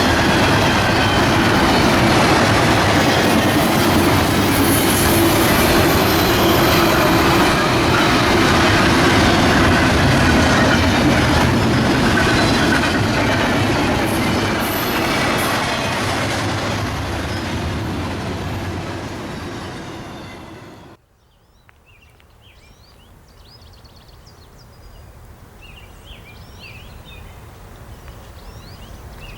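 Freight train rolling past with steady wheel and rail noise. The noise fades over several seconds and then cuts off suddenly about two-thirds of the way in. After that it is quiet, with faint high chirps.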